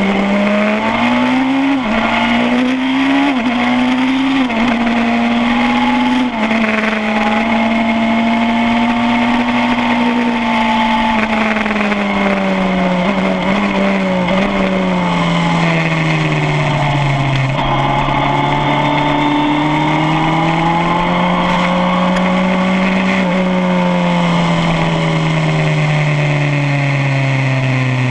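Suzuki GSX-R1000 K7 inline-four engine at racing speed, heard from on the bike. Early on it runs through several quick upshifts, its pitch climbing and dropping in steps. It then holds high revs, falls away slowly, climbs again, and falls toward the end as the throttle comes off.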